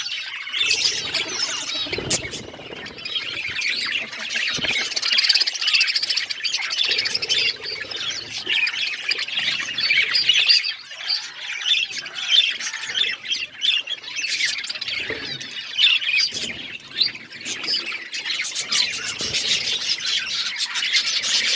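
Budgerigars chirping and squawking in a dense, unbroken chatter of quick, high calls.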